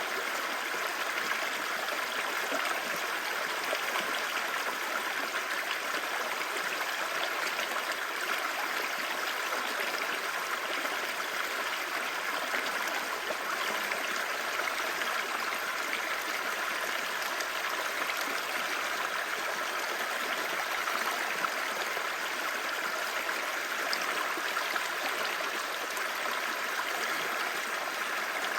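Clear stream babbling: a steady, even rush of flowing water that does not let up.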